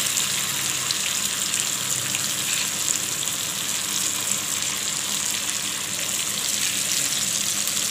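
Masala-coated prawns shallow-frying in oil on an iron tawa: a steady sizzle.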